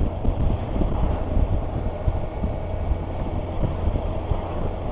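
Wind rushing and buffeting over the microphone on a moving Kawasaki Versys 1000 motorcycle, over a steady low rumble of engine and road noise while riding along.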